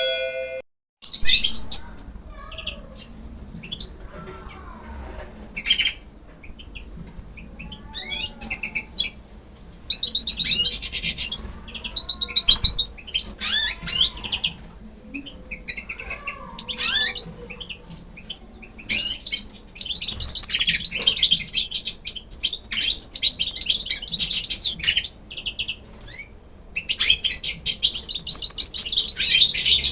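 Birds chirping: dense runs of rapid, high twittering come and go in several bursts, with slower, lower calls in between.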